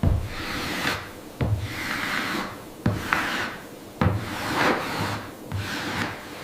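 A hand tool scraping or rasping wood in repeated strokes, about one every second and a half. Each stroke starts with a short knock.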